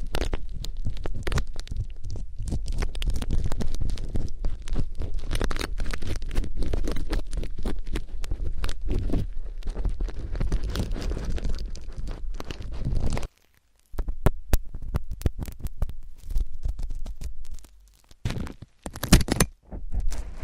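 Ear-cleaning ASMR sounds: an ear pick scraping and rubbing with a dense run of scratchy clicks and low rumble, which cuts off briefly about two-thirds of the way in and returns as sparser clicks and a short scratching burst near the end.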